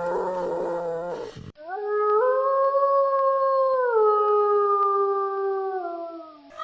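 A dog howling: one long call of about four seconds that rises at the start, steps down partway through and sinks away at the end. Before it, a deeper animal call cuts off abruptly.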